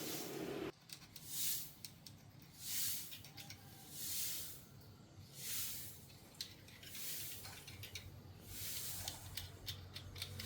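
A steady hum cuts off suddenly near the start; then short hissing strokes repeat about every second and a half, with scattered light clicks toward the end.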